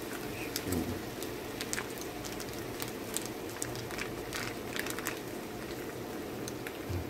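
Vegetables frying in a wok: a steady sizzle with many small irregular crackles and pops.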